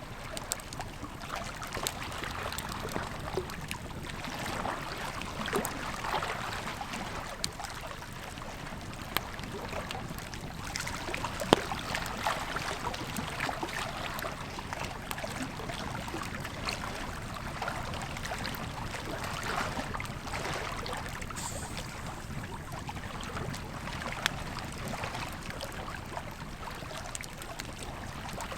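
Campfire crackling, with scattered sharp pops, the loudest about a third of the way in, over the steady rush of a flowing river.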